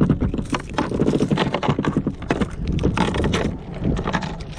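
Anchor being hauled up by hand into a small boat: a steady run of knocks and rattles from the anchor line and gear against the hull.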